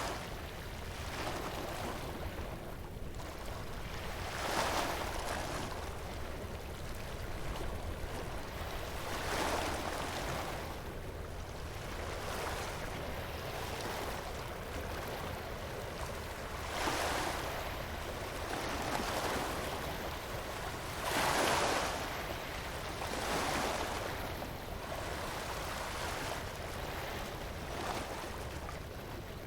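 Waves breaking on a beach, each one a swell of surf noise every few seconds over a steady wash, with a bonfire crackling.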